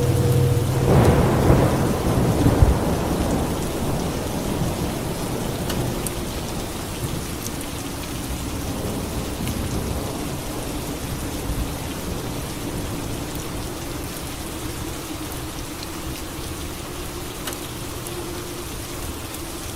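Steady rain with a thunderclap about a second in, rumbling and fading away over the next few seconds.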